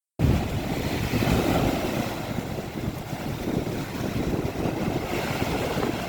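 Wind buffeting the microphone over a steady rush of sea water, heavy and rumbling in the low end.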